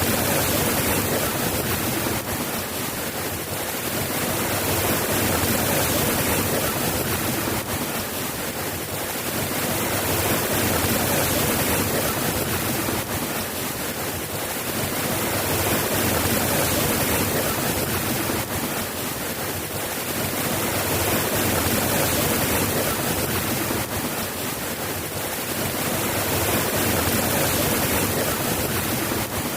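Steady soft rain, a continuous hiss that swells and eases gently about every five seconds, with no thunder claps.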